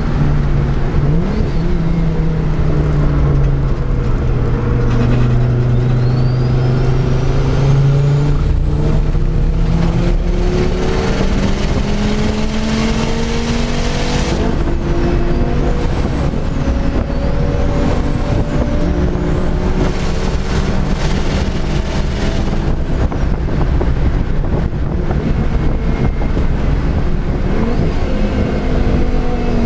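Volvo 850R's turbocharged inline five-cylinder engine heard from inside the cabin at racing speed, its pitch falling and rising several times through gear changes. A thin high whine climbs with the revs and holds at times, over steady road and wind noise.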